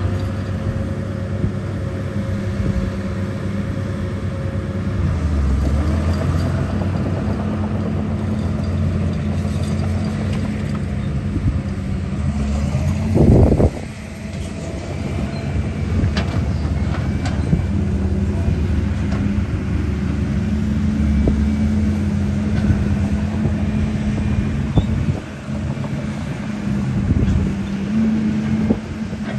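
Steady vehicle engine rumble, with one brief loud thump about halfway through.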